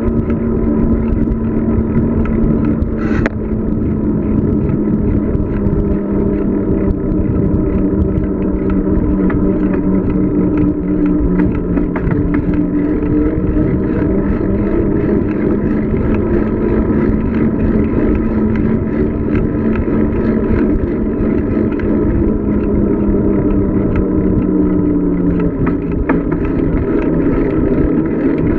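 Steady rolling and rushing noise with a droning hum, which drops slightly in pitch near the end as the speed eases.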